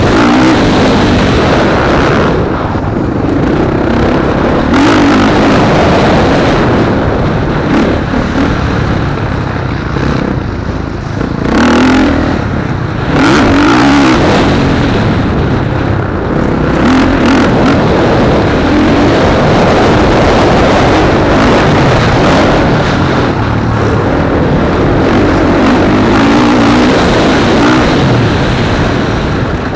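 Motocross bikes racing on a track, their engines revving up and down continuously, with short dips between bursts of throttle.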